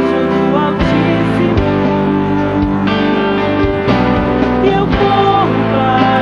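Live band playing a worship song, with guitar, drums and singing.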